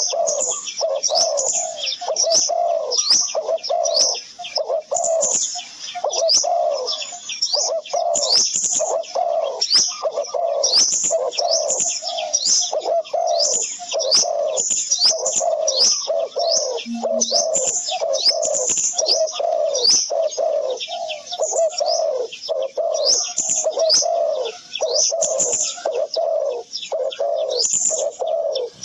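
Birds calling continuously: low cooing like doves together with high, quick chirps, repeating about once or twice a second.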